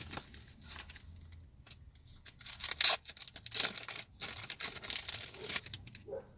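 Crinkling and rustling of mailer packaging and card wrappers being handled and pulled open, in irregular strokes, with one loud rip about three seconds in.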